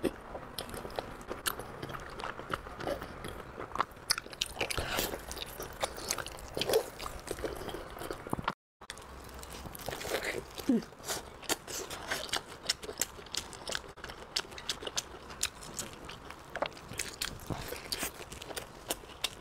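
Close-miked biting and chewing of meat: first a glazed roast pork joint, then, after a brief break, a sesame-crusted pork stomach stuffed with meat, with many small irregular mouth clicks and smacks.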